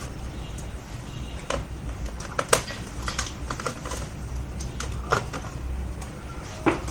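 Scattered small clicks and taps of a screwdriver and screws as the screws come out of a laptop's bottom case, over a low steady hum.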